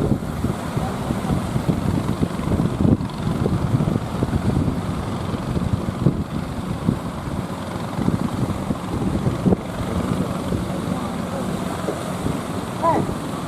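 Wind buffeting the microphone, with a motor boat's engine running underneath.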